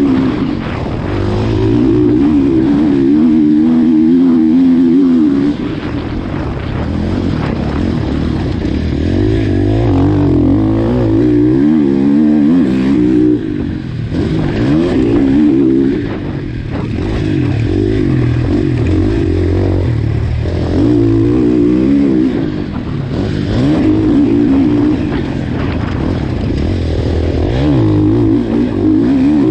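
KTM SX-F 450 motocross bike's single-cylinder four-stroke engine being ridden hard, revving up and backing off over and over as the throttle is opened and shut. The pitch climbs and drops every few seconds.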